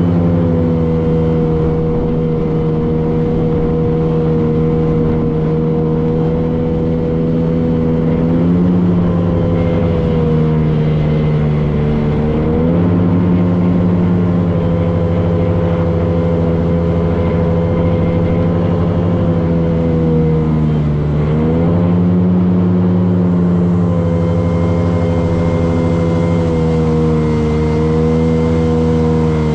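A motorboat's engine running steadily under way, its pitch dipping briefly and coming back up a few times, around a third of the way in, again shortly after, and about two-thirds of the way through, as the throttle eases and opens.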